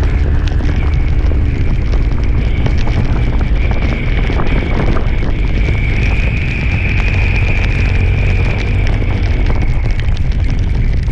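Road vehicle running steadily on the move, with a loud low rumble of wind buffeting the microphone and a faint whine that rises a little in level from about six seconds in.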